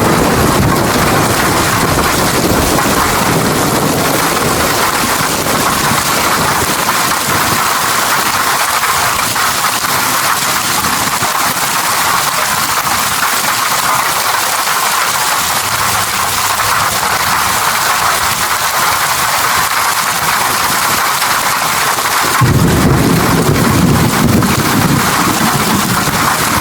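Steady rain hissing, with low thunder rumbling under it that dies away over the first few seconds and comes back suddenly about three-quarters of the way through.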